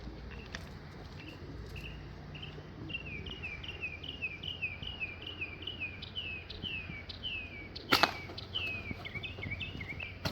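A bird singing a fast run of short, high whistles that each slur downward, about two or three a second, growing louder. About eight seconds in there is one sharp snap, after which the whistling goes on more unevenly.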